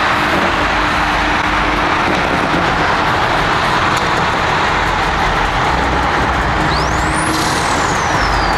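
Car on the move: a steady rush of road and wind noise over a low engine drone. Near the end a high tone sweeps up and then slowly falls.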